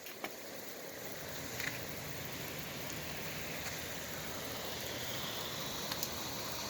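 Steady rain falling, an even hiss that grows slightly louder, with a few faint ticks of drops.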